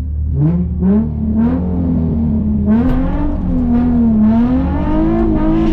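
Nissan 350Z's straight-piped 3.5 V6 revving hard from a standing start. The revs climb from low early on, then waver high and edge upward near the end rather than rising cleanly, which the driver puts down to the clutch slipping.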